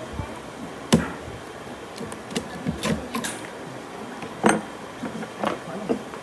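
Scattered light knocks and clicks at an uneven pace, the loudest about a second in and again about four and a half seconds in.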